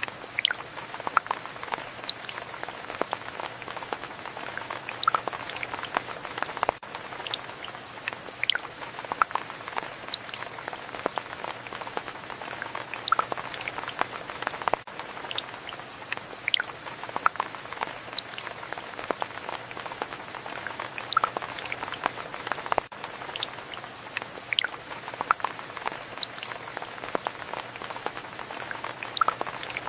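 Steady rain with many separate drops striking close by in an irregular scatter of sharp ticks.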